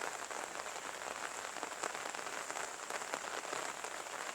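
Steady light rain falling, an even hiss full of small pattering drop ticks.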